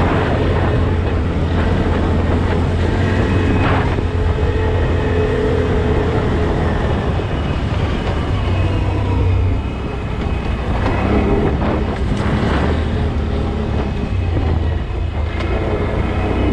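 A motor vehicle's engine running steadily as it drives, a constant low rumble, easing off briefly about ten seconds in.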